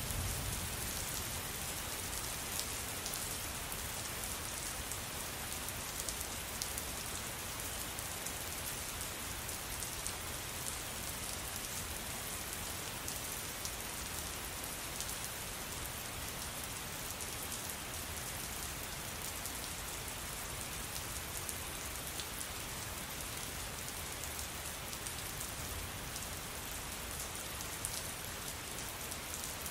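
Steady rain falling on a surface, a continuous hiss with many small drop ticks scattered through it over a low rumble.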